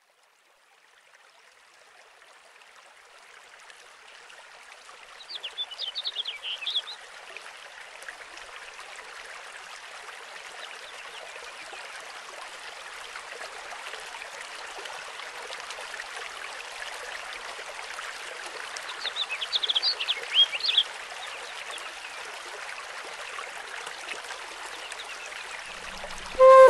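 Running water of a stream, fading in from silence and slowly getting louder. Two short bursts of quick bird chirps come through it, about five seconds in and again near twenty seconds.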